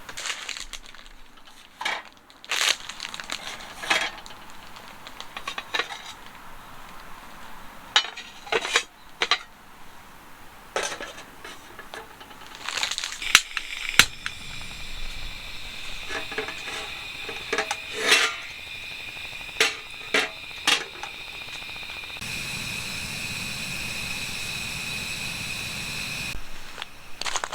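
Camp cookware and utensils being handled: a series of separate clinks and knocks. About halfway in a steady high tone sets in. Near the end it grows louder with a low hum for a few seconds, then stops.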